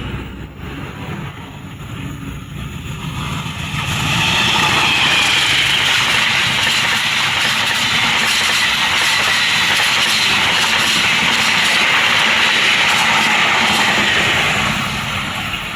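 A train passing on the track, its wheels and carriages rolling by. The noise swells about four seconds in, holds steady, and drops away near the end.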